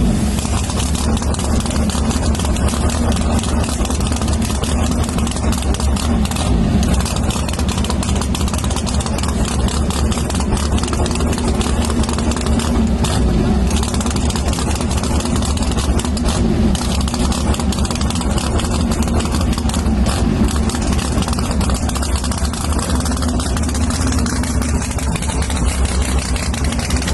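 An engine idling steadily, with voices underneath.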